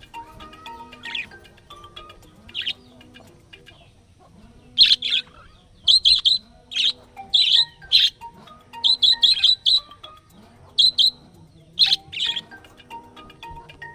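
Small pet parrot chirping in quick bursts of sharp, high calls, densest from about five seconds in until near the end, over quiet background music.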